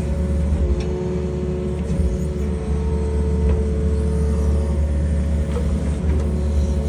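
Excavator's diesel engine running steadily under working load, a low drone with a steady whine over it.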